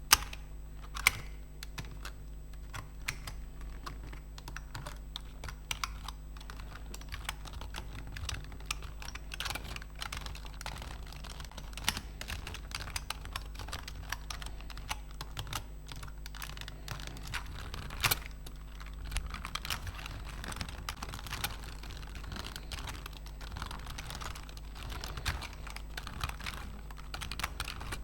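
Computer keyboard keys being typed on close up: a dense, irregular run of key clicks, with a few louder strokes standing out.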